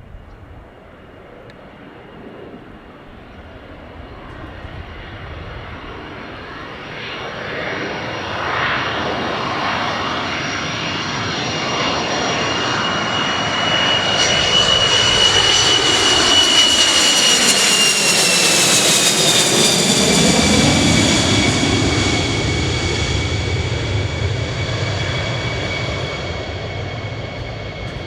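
Military jet on final approach: the engine whine grows steadily louder, then drops in pitch as the jet passes about twenty seconds in, and fades a little as it goes by toward the runway.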